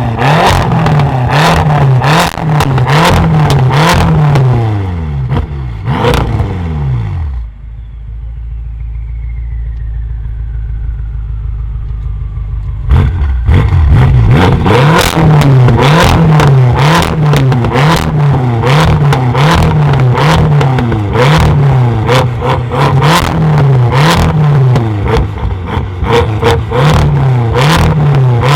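Tuned car's engine being revved repeatedly, about one rev a second, with many sharp exhaust pops and crackles. About a quarter of the way in the revving stops for several seconds, leaving a low steady rumble, then resumes.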